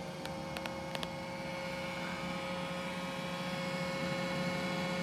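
Roomba j7+ robot vacuum running, its suction motor and brushes giving a steady whirring hum with a few light clicks in the first second.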